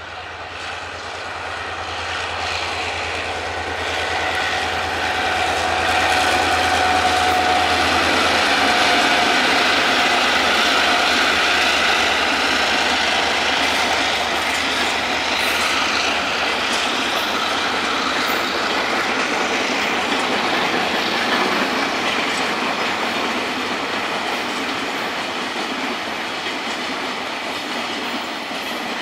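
A diesel-hauled freight train passing close by. A low locomotive engine drone fades over the first ten seconds or so, then a long string of freight wagons rolls past with wheels clacking over the rail joints.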